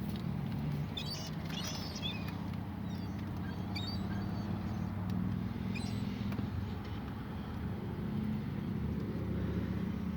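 A steady low motor hum, like an idling engine, with a few faint, short high calls from seagulls.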